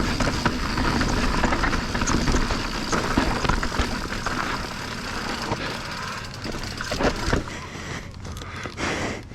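Mountain bike riding down a rough technical trail: a steady rush of riding noise, with the bike rattling and tyres knocking over rocks and roots. It grows quieter about halfway through as the bike slows.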